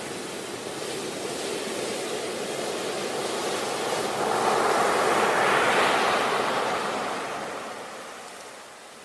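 Ocean waves washing ashore: a steady hiss of surf that swells as a wave breaks about halfway through, then draws back and fades.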